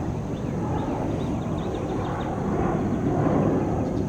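Steady rumble of jet airliner engines, with small birds chirping over it.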